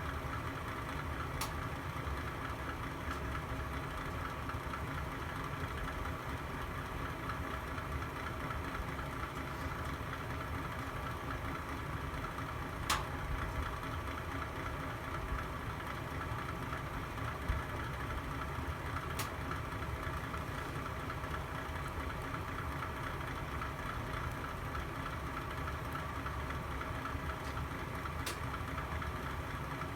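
Log fire burning in a fireplace: a steady low rumble of flames, with a few sharp crackling pops from the wood.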